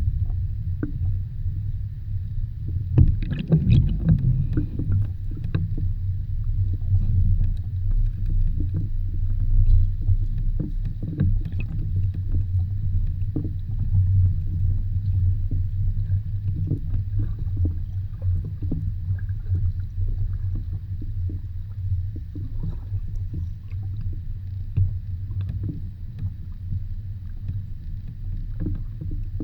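Underwater sound of a shallow lagoon bottom: a steady, muffled low rumble with scattered faint clicks and crackles, a cluster of them about three seconds in.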